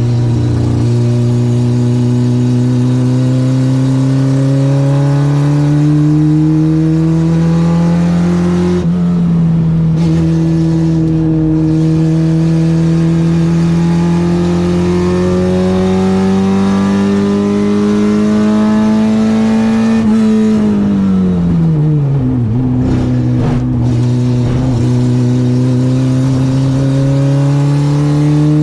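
Citroën AX 8-valve engine on twin Weber 40 carburettors pulling on track. Its pitch climbs slowly, drops at a gear change about nine seconds in, climbs again, then falls steeply a little past twenty seconds as the car slows, and picks up once more. The car is running without its exhaust tip, which came off on the track.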